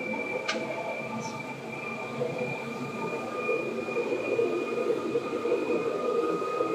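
Seibu 2000 series electric commuter train running, heard on board: a steady rumble of wheels on rail with several steady whining tones from the running gear, slowly growing louder toward the end. A brief click about half a second in.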